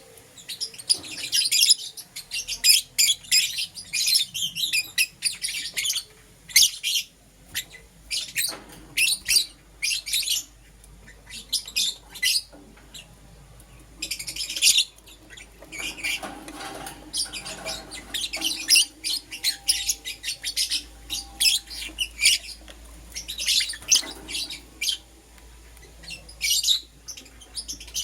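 Green opaline and lutino lovebirds chirping: rapid, shrill chirps in clusters, one after another with only short gaps.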